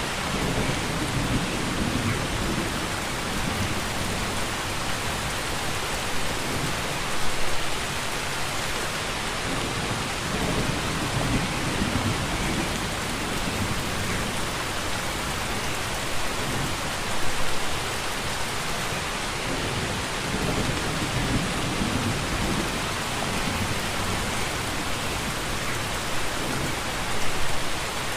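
Steady heavy rainfall, an even hiss with slow low rumbling swells rolling in and out. Three brief louder surges come about ten seconds apart.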